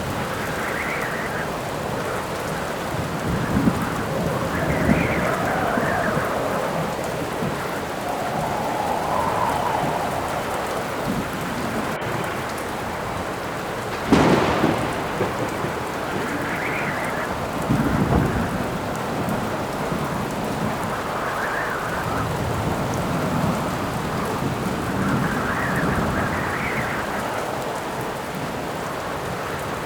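Rainstorm: steady heavy rain with howling wind rising and easing in swells every few seconds. A sharp thunderclap hits about halfway through, followed a few seconds later by a lower rumble of thunder.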